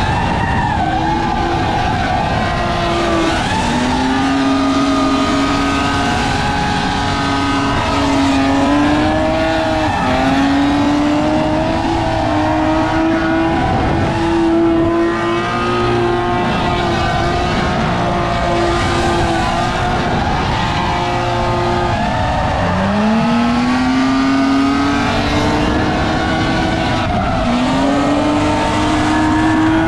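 BMW E36 drift car's engine running hard on track, held high in the revs. Its pitch sags and climbs back up several times, about four seconds in, around ten seconds, and twice in the last third.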